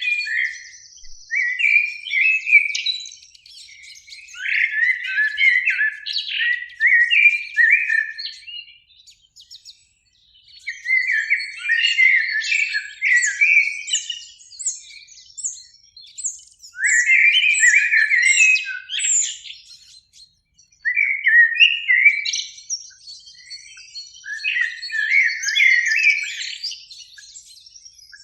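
Eurasian blackbird singing: about six song phrases of a few seconds each, separated by brief pauses.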